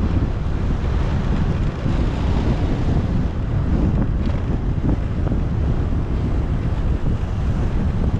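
Wind buffeting the microphone on a moving motorcycle, over a steady low rumble of engine and road noise.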